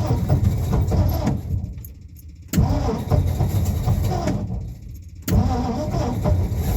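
Cold start of a clapped-out unibody's engine: it is cranked and fires in three goes that begin suddenly about two and a half seconds apart. The first two fade away before it is cranked again, as it struggles to stay running.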